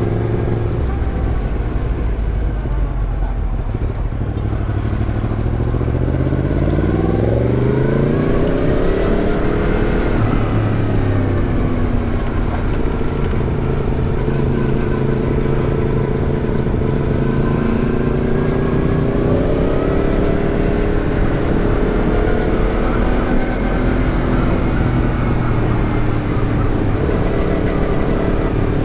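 Yamaha MT-10's crossplane inline-four running through an Arrow aftermarket exhaust while being ridden. The engine note drops at first, climbs steadily for several seconds, holds a fairly even pitch, then rises again about two-thirds through.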